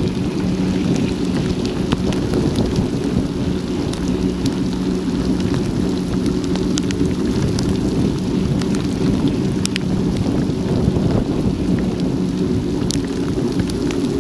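Heavy rain, with many single drops ticking against a bike-mounted action camera's housing, over a steady low rush from riding along a wet road.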